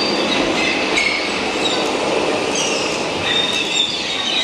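Steady rumbling running noise with high-pitched squeals coming and going over it.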